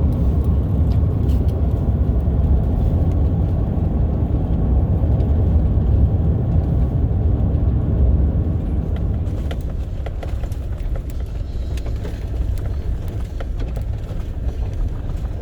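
Vehicle driving, a steady low rumble with scattered small clicks and rattles.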